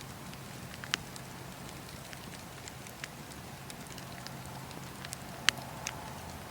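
Wood fire crackling in a fireplace: a steady low hiss with irregular sharp pops and snaps, the loudest about a second in and again near five and a half seconds.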